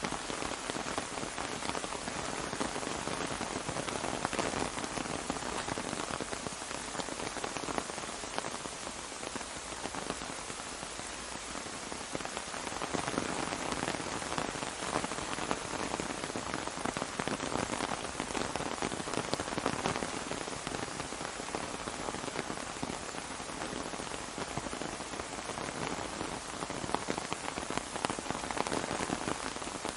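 Steady rain falling on an umbrella, a dense, even patter of drops.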